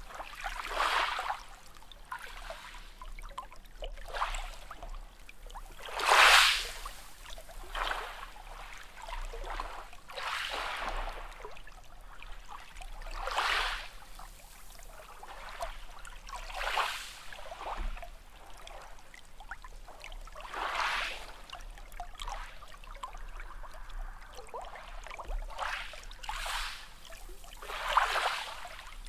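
Small sea waves washing in one after another, a swell of splashing hiss every few seconds, the biggest about six seconds in and another near the end.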